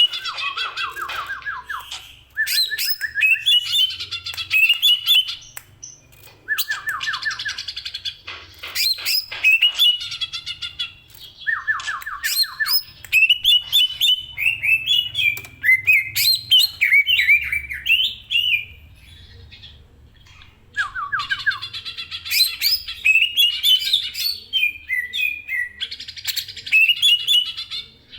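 Cucak ijo (green leafbird) singing loud, varied phrases: quick runs of whistled notes that leap up and down, broken by short, fast rattling trills lower down, with brief pauses between bouts.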